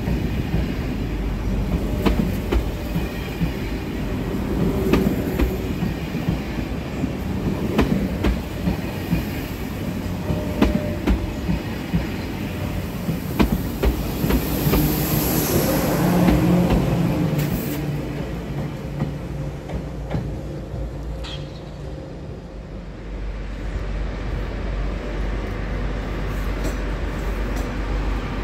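TGV high-speed train rolling slowly past, its wheels clicking over rail joints every second or so over a steady rumble. The noise swells with a hiss and hum as the end of the train goes by about halfway through, then dies away, with a brief wheel squeal a few seconds later.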